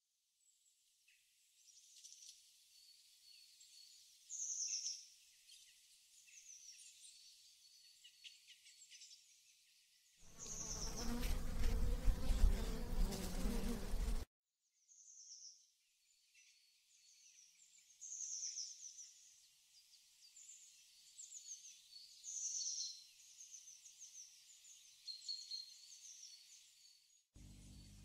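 Small songbirds chirping and twittering, thin-sounding, with only their high notes present. About ten seconds in, a louder spell of low noise with a hum in it lasts about four seconds, then the chirping resumes.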